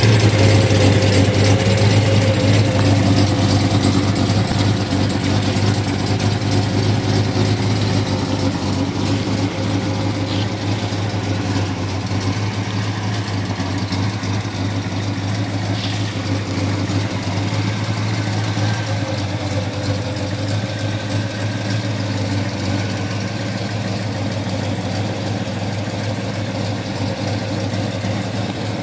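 1970 Chevelle SS454's LS5 454 cubic-inch big-block V8 idling steadily.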